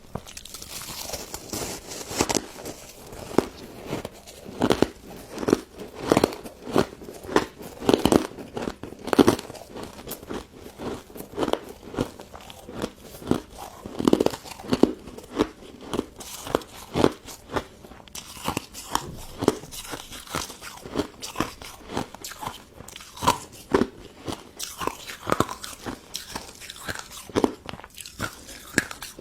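Close-miked crunching and chewing of a frozen pink crystal snow ice dessert: many sharp, crisp crunches in quick, irregular succession as it is bitten and chewed.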